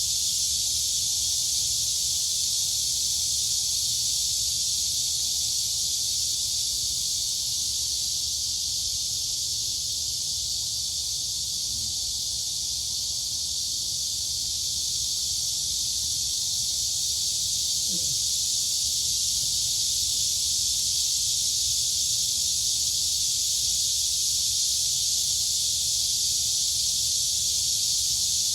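Dense, steady chorus of crickets and cicadas: a continuous high-pitched shrill buzz with no pauses, over a faint low rumble.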